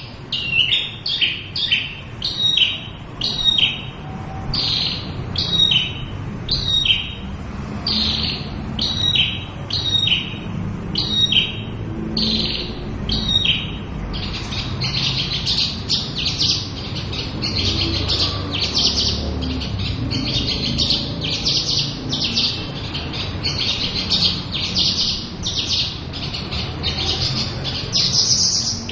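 Javan bush lark singing: a string of short, falling whistled notes about two a second. About halfway through these give way to a faster, unbroken stream of rapid chirps.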